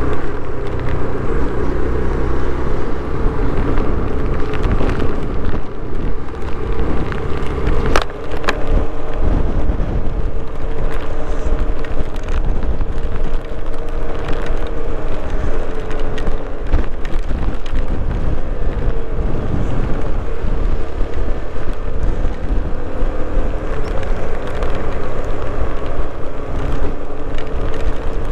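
Hero XPulse 200's single-cylinder engine running at a steady road speed, with wind buffeting the microphone. There is a sharp click about eight seconds in.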